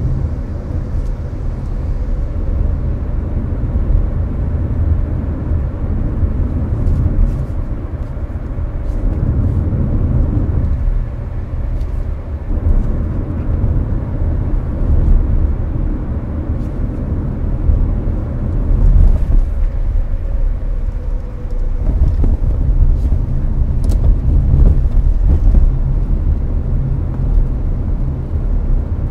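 Cabin noise of a Hyundai Avante cruising on an expressway: a steady low road and tyre rumble, with the air conditioner blowing strongly.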